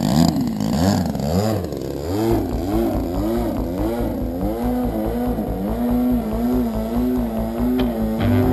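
DLE 20cc single-cylinder gas two-stroke engine on an RC plane, with the throttle pushed up and down so the pitch rises and falls repeatedly, then running at a steady speed for the last couple of seconds.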